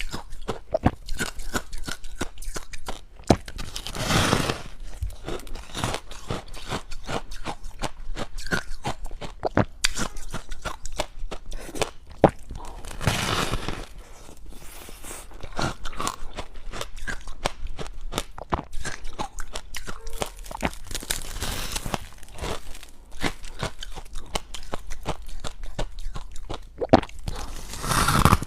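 Close-up crunching and chewing of large chunks of deep-freezer ice: a dense, constant crackle of cracking ice, broken by a few louder, longer crunches from fresh bites.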